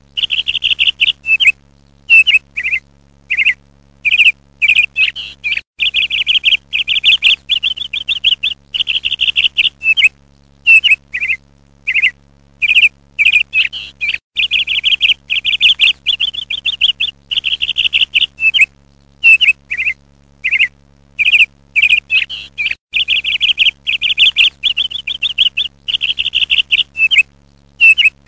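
Bird chirping in rapid trills, loud and repeated over and over with short gaps between phrases, over a faint steady hum.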